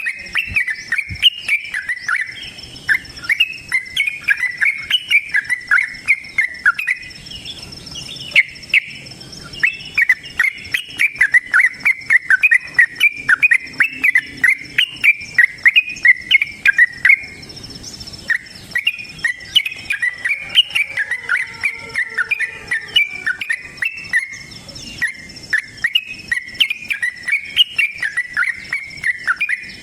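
Yellow-vented bulbul (trucukan) singing in long, fast chattering runs of short notes, pausing briefly twice, over a steady thin high tone.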